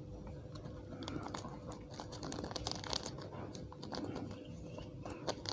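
Faint crinkling and small irregular clicks of a plastic sachet being squeezed as chili oil is poured over instant noodles.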